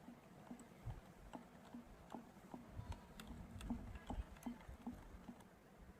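Faint, regular clicks of a mixing utensil knocking against the bowl as cake batter is stirred, about two or three a second, with a few soft low thumps.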